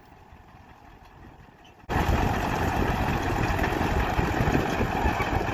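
A low, quiet background for about the first two seconds, then a Caterpillar crawler tractor's diesel engine cuts in suddenly and runs steadily as it pulls a six-furrow plough.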